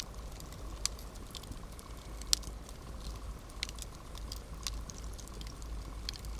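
Wood campfire crackling: a steady low rumble of the burning fire with a few scattered sharp pops and snaps, the loudest about two and a half seconds in.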